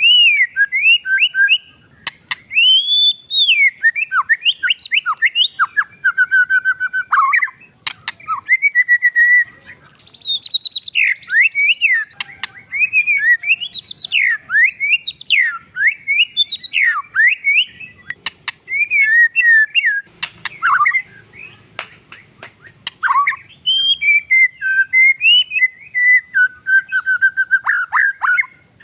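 Oriental magpie-robin (kacer) in full, vigorous song: a fast, almost unbroken stream of varied whistled phrases sweeping up and down, with a short pause about ten seconds in. A steady faint high hiss runs underneath.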